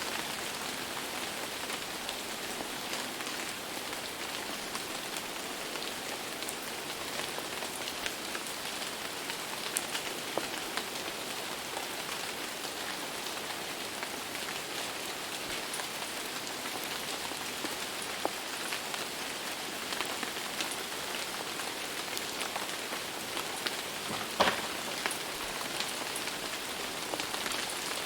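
Steady rain falling on a surface, a dense even patter with scattered single drops ticking louder, one sharper drop hit near the end.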